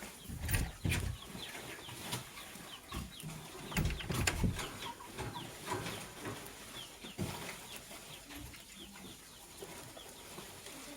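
Gray lovebird chirping: a running series of short, quick chirps, with a few low thumps about half a second in and again around four seconds in.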